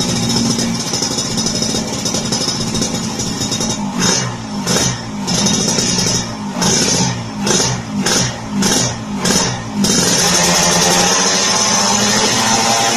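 Yamaha RX-King two-stroke single revving through an aftermarket SR Thailand-style exhaust. It is held at high revs, then gets a string of quick throttle blips from about four to ten seconds in, each falling back in pitch, then is held high again.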